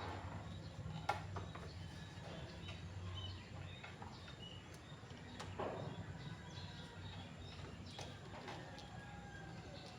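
Faint background ambience with a low hum, a few scattered clicks and knocks, the sharpest about a second in, and faint bird chirps.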